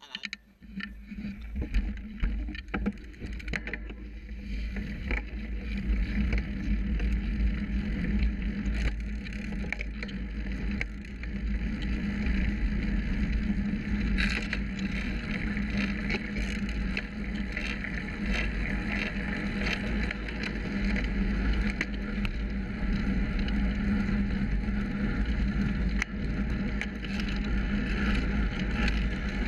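Road bike in motion heard through a bike-mounted GoPro: wind rumbling on the microphone and tyre noise, growing over the first few seconds as the bike gathers speed. Frequent small rattles run through it, which the rider thinks are the gear cables knocking against their casing.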